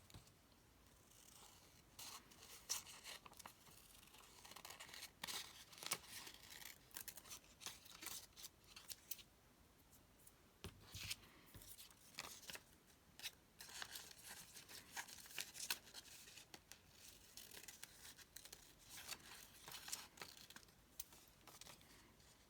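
Small scissors snipping paper in many short, quiet cuts, fussy cutting around a stamped image.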